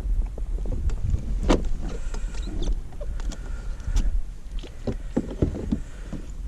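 Low wind rumble on the microphone with scattered knocks and clicks: handling noise in a kayak while a hooked snook is being landed.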